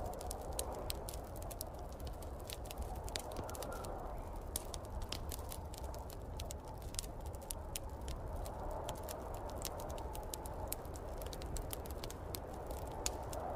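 Wood fire crackling in a fireplace, with many irregular sharp pops, over the steady, gently swelling rush of a snowstorm wind.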